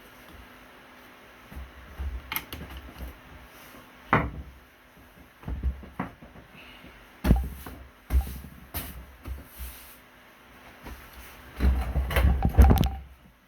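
Irregular handling noises: scattered clicks, knocks and low thumps with brief rubbing between, loudest in a cluster near the end.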